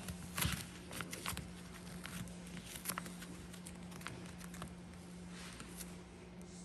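Scattered light clicks and rustles over a steady low hum.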